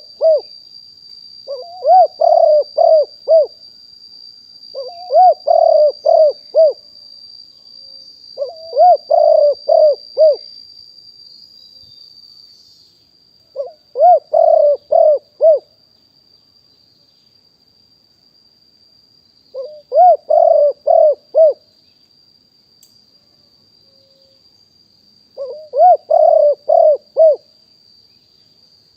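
Spotted dove cooing: phrases of four or five low coos, repeated six times at uneven gaps of a few seconds.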